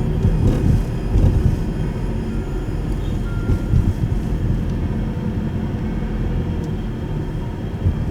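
Road and drivetrain noise heard inside the cabin of a Subaru Impreza Sport (GP7) while driving: a steady low rumble with a few louder bumps in the first couple of seconds.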